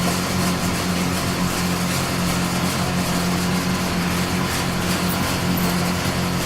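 Wood-cutting saw machine running steadily: a constant low motor hum under an even hiss.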